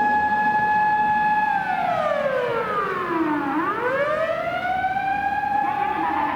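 Japanese fire pump truck's siren wailing. It holds a steady high tone, falls in pitch about a second and a half in, then sweeps back up and holds high again.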